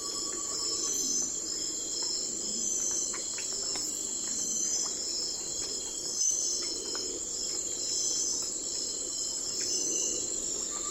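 Night-time insect chorus: crickets trilling steadily in several overlapping high, pulsing layers over a low, even background hiss.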